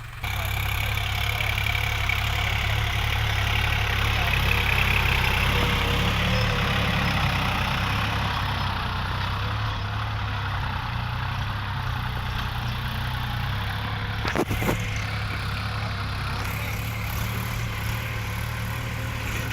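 New Holland 3600-2 tractor's diesel engine running steadily, with a single brief knock about fourteen and a half seconds in.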